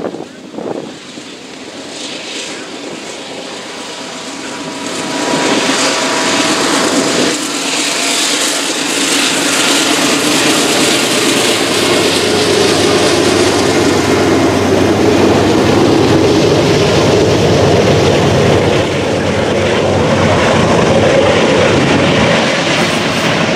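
Norfolk Southern freight train with GE diesel locomotives in the lead passing close by, engines running, followed by double-stack intermodal container cars rolling past with steady wheel and rail noise. It grows louder about five seconds in as the locomotives come abreast, then stays loud and even.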